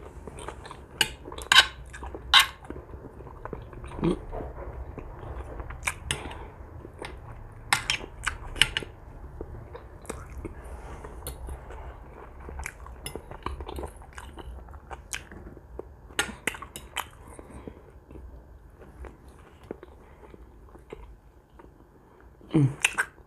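Close-miked chewing and biting of roast pork and vegetable salad, with sharp clicks of a fork against a plate scattered through. There is a brief low falling hum near the end.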